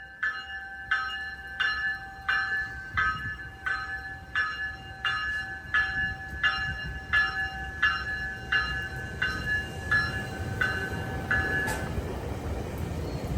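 A railway bell strikes steadily, about three strokes every two seconds, each stroke ringing on. It stops near the end, and a train's low rumble grows.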